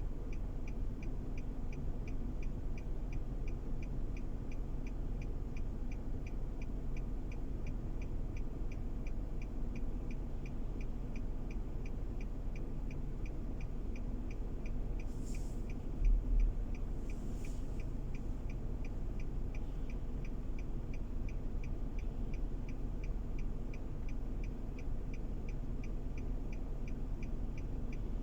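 Car being driven, heard from inside the cabin: a steady low road and engine rumble, with a faint regular ticking about two to three times a second and a short thump about halfway through.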